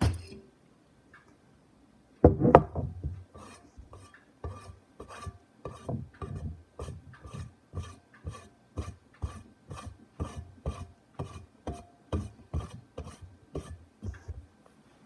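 Rhythmic scratching strokes, about three a second, close to the microphone, after a louder scrape about two seconds in.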